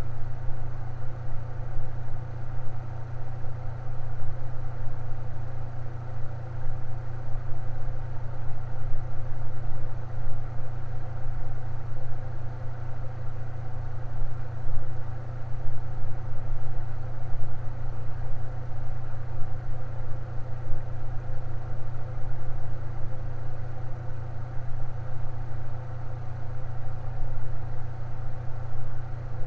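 Electric fan running steadily: a constant low motor hum with a softer whir of the blades above it, unchanging throughout.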